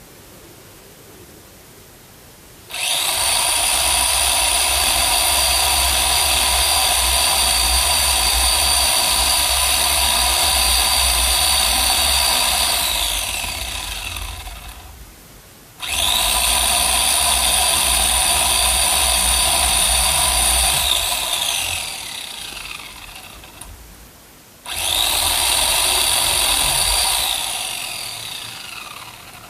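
Electric chainsaw run in three long bursts while cutting wood. Each burst starts abruptly with a high whine and ends with the motor winding down in pitch after the trigger is released.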